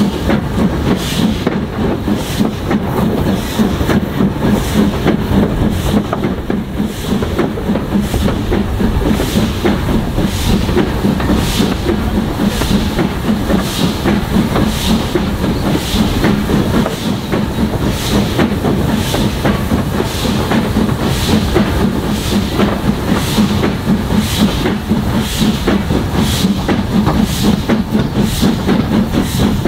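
Steam-hauled train running, from ex-Somerset & Dorset 7F 2-8-0 locomotive No. 53809: a steady hiss of steam and rumble, with a regular beat about one and a half times a second.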